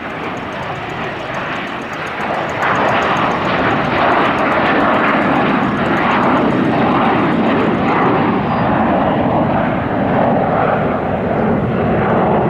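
Jet airliner passing, its engine roar growing sharply louder about two and a half seconds in and staying loud, with a low tone sliding down in pitch in the second half.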